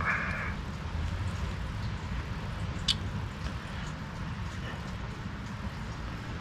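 Small carburetor parts being handled: one sharp click about three seconds in and a few faint ticks, over a steady low hum.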